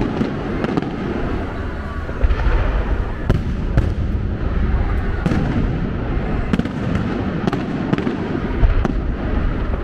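Aerial fireworks display going off: a steady run of sharp bangs and crackles over a continuous low rumble.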